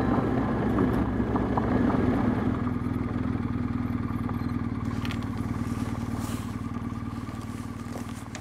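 BMW R1250GS boxer-twin engine running at a steady pitch, slowly getting quieter.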